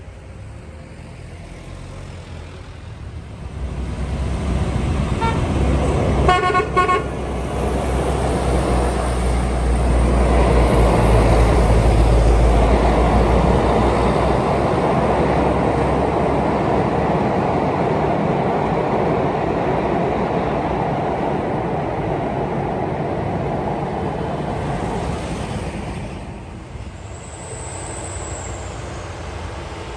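A heavy diesel truck passes close by, its engine rumble swelling and then fading away, with a few short horn toots about six seconds in.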